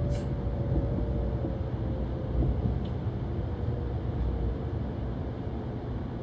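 Cabin noise of a Kyushu Shinkansen 800 series train heard from inside the passenger car: a steady low rumble with a motor whine that slowly drops in pitch as the train slows. A brief click right at the start.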